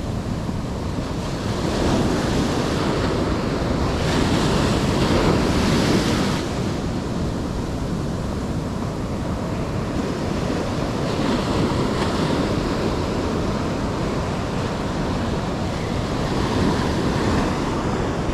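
Ocean surf washing onto the shore, with wind on the microphone; the wash swells louder and dies back several times.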